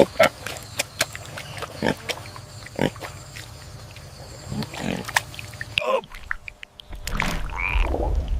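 Pig grunting in short, scattered grunts, then, after a cut about six seconds in, a few longer squealing calls.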